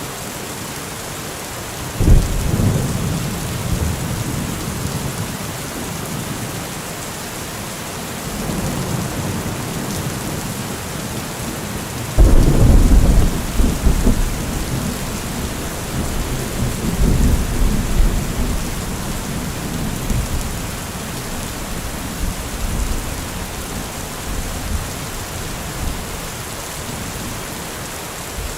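Heavy rain falling steadily, with two deep rumbles: a short one about two seconds in, and a louder one about twelve seconds in that rolls on for several seconds.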